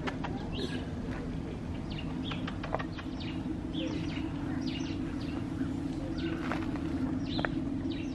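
Small birds chirping in short calls, several each second, over a steady low hum.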